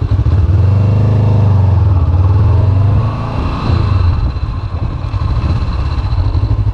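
Honda CB500X parallel-twin motorcycle engine running at low revs as the bike pulls away and turns, rising a little about a second in and easing off about three seconds in.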